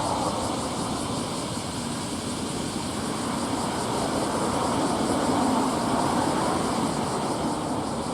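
Steady rumble and rushing noise of a car ferry under way, its engines and wake heard together, swelling slightly in the middle.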